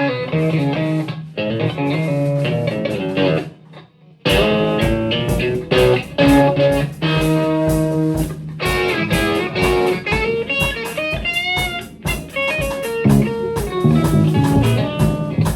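Improvised instrumental music led by electric guitar over a bass line. The playing drops out briefly about four seconds in, then resumes with a steady low beat.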